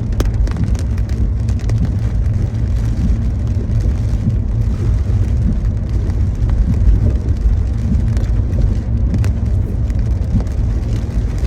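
Steady low rumble of a car driving on wet roads, heard from inside the cabin.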